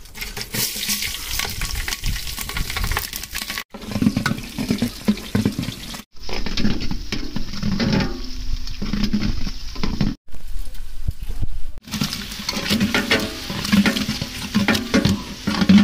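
Spices, onions and then tomatoes frying in hot oil in a large aluminium pot: dense sizzling and crackling, with a ladle stirring and scraping against the metal. Broken by several abrupt cuts.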